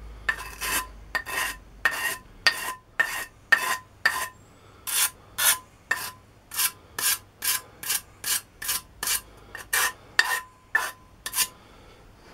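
Hand file stroking back and forth on the edge of a steel try-square blade cut from an old handsaw, about two strokes a second, each stroke carrying a slight ring from the steel. It is the clean-up of the freshly ground, mitred corners.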